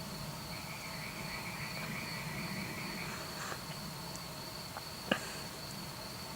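Crickets trilling on a summer night: a steady high chirring throughout, joined early on by a second, lower trill for about two and a half seconds, over a low background rumble. A single sharp click about five seconds in.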